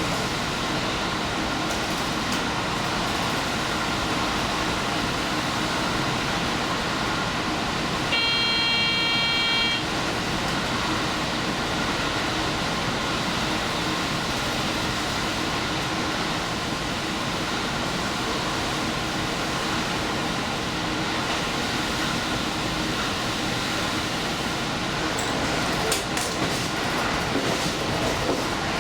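Diesel express train running at speed, a steady rumble and rush, with its horn sounding once for about a second and a half about eight seconds in.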